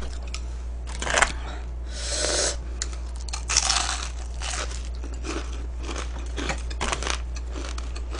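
Close-up chewing and crunching of crispy food: a series of irregular crackly bites, the loudest a little after a second in and again around two to four seconds in.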